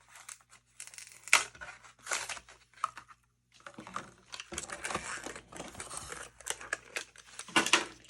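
Hot Wheels blister pack being opened by hand: plastic and cardboard crinkling and tearing, with a couple of sharp snaps about a second in and near the end.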